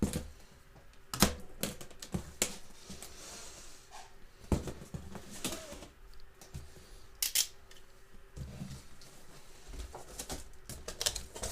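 Irregular sharp clicks, knocks and scrapes of a cardboard box being cut open with a knife and its packaging handled.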